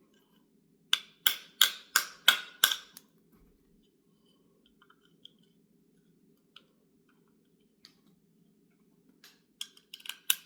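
Hand-tool work on an HEI distributor while a hole is being enlarged. About a second in come six sharp taps, about three a second, each ringing briefly. Scattered light clicks of metal parts follow, and a few more quick taps come near the end.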